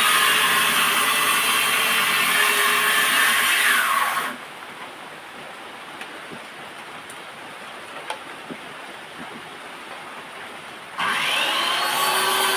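Electric power tool running steadily, then winding down about four seconds in with a falling whine. A few light knocks follow in the lull. Near the end it starts up again, its whine rising to speed.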